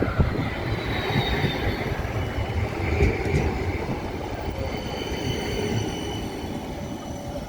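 Tram running along street track with a low rumble and thin, faint high-pitched wheel squeal, the rumble easing away over the last few seconds.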